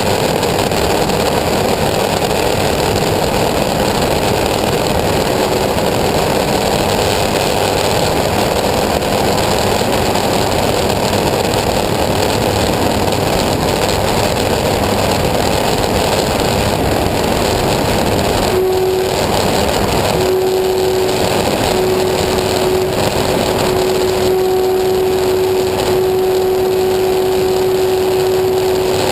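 Engine of a homemade aircraft running steadily and loudly. About two-thirds of the way through, a steady pitched hum rises out of the engine noise and holds.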